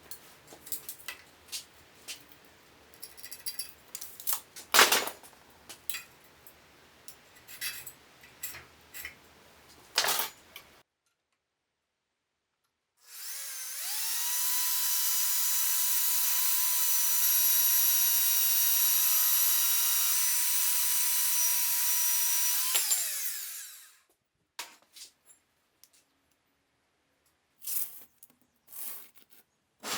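A handheld power tool motor spins up, runs steadily at a high pitch for about nine seconds, and winds down. Scattered knocks and clicks of metal parts being handled come before and after it.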